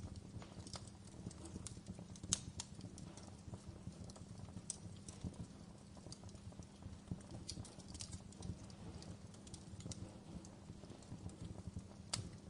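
Wood fire crackling in a fireplace: irregular sharp pops and snaps over a low steady rumble of the flames, with a louder pop about two seconds in and another near the end.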